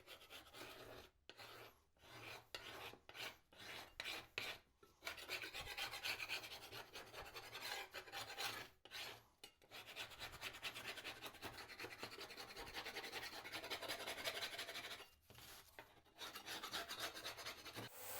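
Wood being rubbed down by hand with an abrasive tool in rapid back-and-forth strokes. The strokes are short and separate at first, then run almost without a break from about five seconds in, with a couple of brief pauses.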